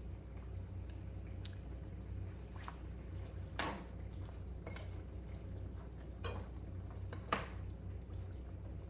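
Curry chicken simmering in a covered pot: a few short bubbling pops and drips over a faint steady low hum.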